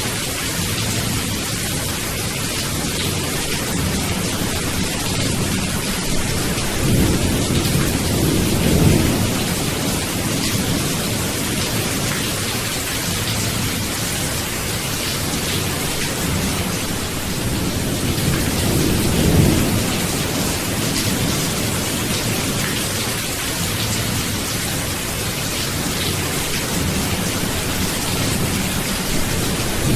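Steady heavy rain hiss with low thunder rumbling, swelling twice, about a quarter of the way in and again past the middle.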